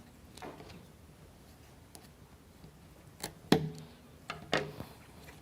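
A few sharp clicks and light taps, two pairs in the second half, from small plywood model parts and toothpicks being handled and cut at the work table.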